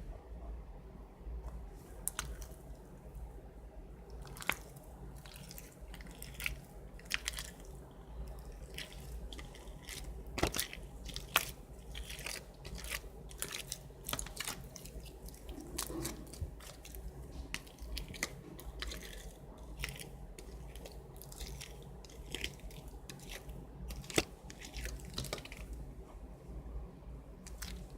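Foam-ball slime (floam) being squeezed and kneaded, its foam beads crackling in irregular crunchy clicks, several a second.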